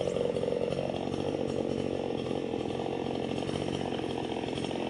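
Two-stroke chainsaw running steadily at a constant pitch, with no change in speed.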